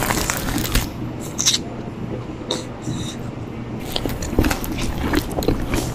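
Close-up mouth sounds of someone chewing and eating, with irregular wet smacks and clicks and a few short squeaky slurps, and plastic utensils scraping in a paper cup. A steady low hum sits underneath.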